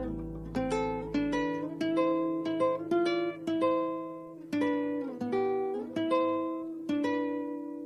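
Instrumental close of a song: a guitar picking single notes that ring and die away one after another, with no singing. A low drone under the notes drops out about a second and a half in, and the notes grow quieter toward the end.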